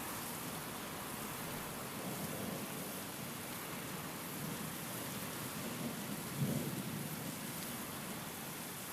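Steady rain and wind with low rumbles of thunder, the strongest rolling in about six seconds in.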